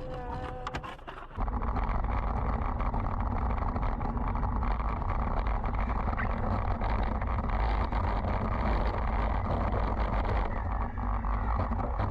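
Steady rumble and road noise of a moving vehicle, with a heavy low end. It cuts in suddenly about a second and a half in and holds steady. Before it there is a short stretch of quieter sound with a few wavering tones.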